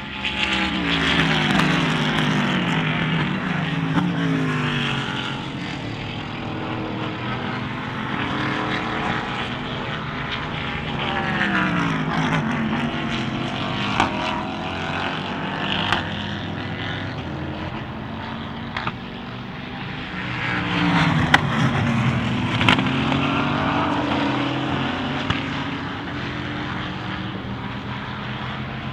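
Endurance race cars passing at speed one after another, each engine's pitch dropping as it goes by, with a few sharp cracks among them.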